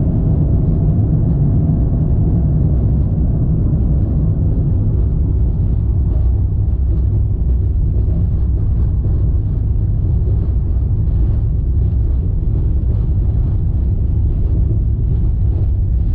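Airliner cabin noise: a steady, loud low rumble, with faint light rattles running through it from about halfway in.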